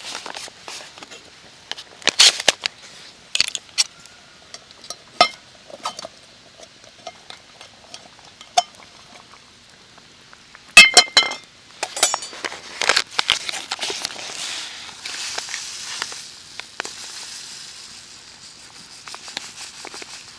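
Camp gear being handled: a string of separate clicks and knocks, with one loud ringing metallic clink about eleven seconds in and a light hiss in the second half.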